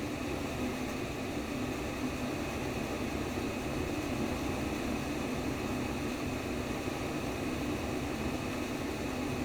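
Simulated womb sound: a steady, even rush of white noise, fullest in the low-middle range, with no distinct pulse.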